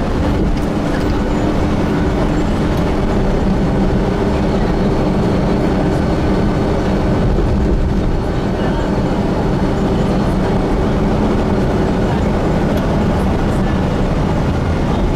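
Inside a Gillig Phantom transit bus with a Voith transmission, running steadily: an even low drone of engine and road noise with a constant hum, holding the same level throughout.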